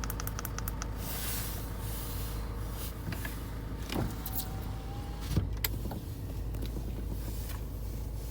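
Steady low hum inside a car, with a couple of sharp clicks and a short steady tone about four seconds in.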